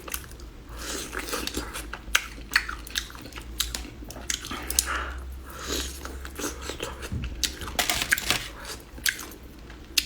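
Close-up chewing and biting into a whole cooked kidney: repeated wet, crunchy bites with small clicks and smacks throughout.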